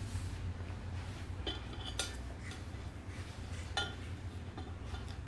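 Cutlery and dishes clinking and tapping now and then as a meal is eaten, a few sharp clinks spread through, over a steady low hum.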